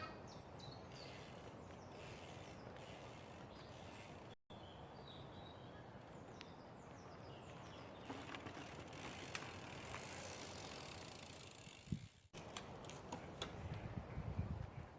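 Mountain bike rolling on a trail, its freewheel hub ticking over quiet outdoor ambience with a few faint bird chirps. The sound is cut off briefly twice, and rumbles heavier near the end.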